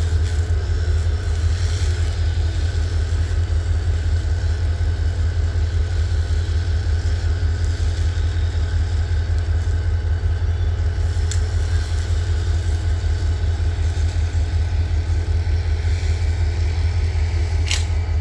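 Diesel locomotive idling, a steady deep low rumble. A brief high squeak sounds near the end.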